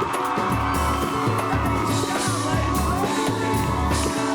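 Live samba band playing an instrumental stretch with a steady, repeating bass beat, and an audience cheering and whooping over it.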